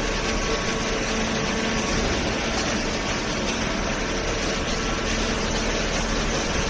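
Automatic hydraulic cardboard baler running: a steady machine noise with a low, even hum from its hydraulic pump.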